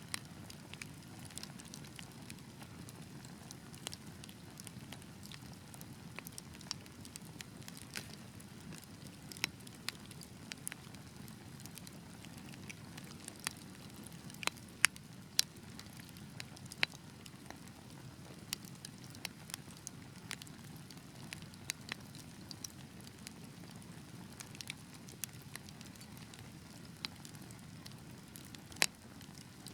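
Wood fire burning with a steady low rush of flame and irregular sharp crackles and pops from the logs, a few louder pops standing out.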